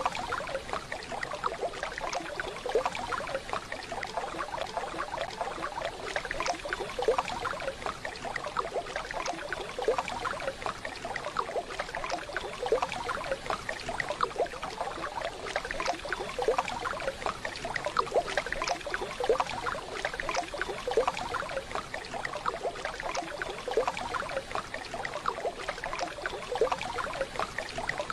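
Waterfall sound: a steady wash of falling, splashing water, with many small irregular splashes and plinks.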